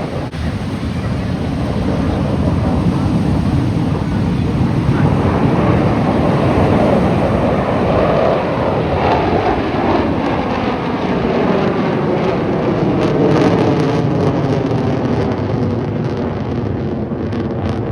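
Blue Angels F/A-18 Super Hornet jet noise, building and passing overhead. Its pitch sweeps downward as the jets go by.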